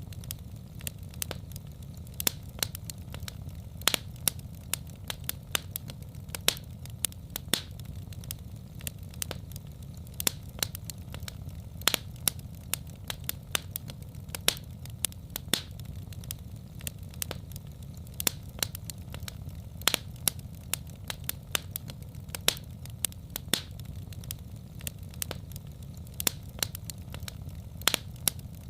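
Wood fire in a fireplace crackling: irregular sharp pops and snaps several times a second over a steady low rumble of the flames.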